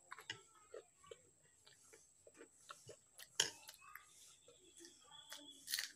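Close-up eating sounds: quiet chewing with small wet mouth clicks and light taps scattered throughout, and a couple of sharper clicks about halfway and near the end.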